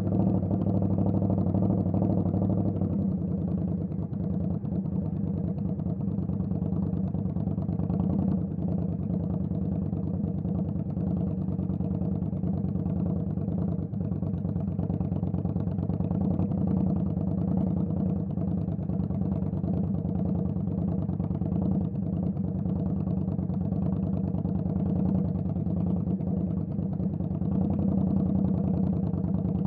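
Indian Scout Bobber's V-twin engine running at a steady, even pitch, with no revving.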